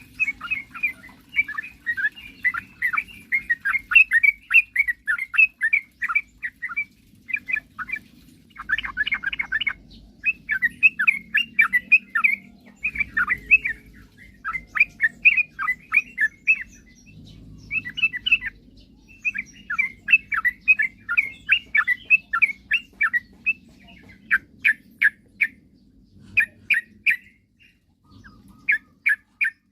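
Yellow-vented bulbuls (trucukan) chattering in repeated bursts of quick, bubbling notes with short pauses between them, over a faint low hum.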